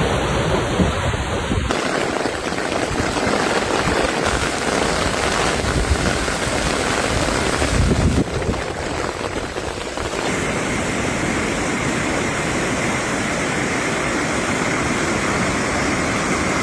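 Loud, steady rushing of storm water and wind, an even noise with no distinct events. It changes abruptly twice, about two seconds in and again about ten seconds in, as different storm recordings follow one another.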